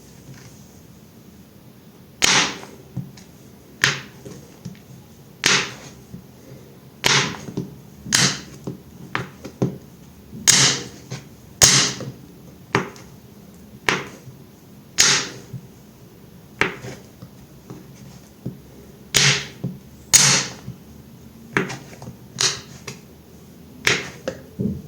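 Knife cutting through a bar of soap: a series of crisp slicing strokes, about one a second at uneven intervals, starting about two seconds in.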